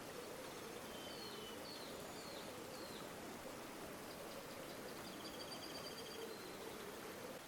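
River water flowing steadily, with birds calling over it: four short chirps between about one and three seconds in, then a quick trill from about four to six seconds.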